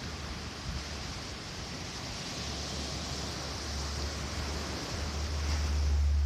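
Ocean surf washing on a beach as a steady hiss, with wind buffeting the microphone as a low rumble that comes in about two seconds in and grows louder near the end.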